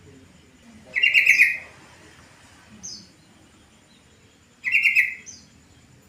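Yellow-vented bulbul (trucukan) calling: two short, loud bursts of rapid bubbling notes, about a second in and again near the end, with a fainter high call in between.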